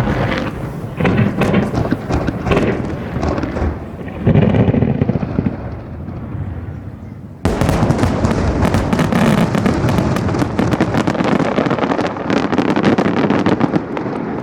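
Aerial firework shells bursting, the senrinka (thousand-flower) kind that scatter into many small bursts, giving dense, rapid crackling reports. A deep boom about four seconds in rumbles away, and the crackling starts again abruptly around halfway through.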